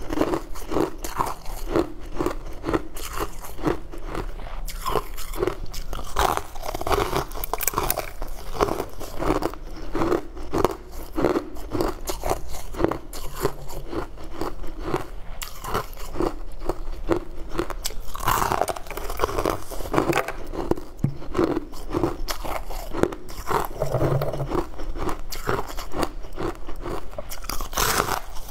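A person biting and chewing frosty frozen chunks close to the mic: a steady, rapid run of crisp crunches.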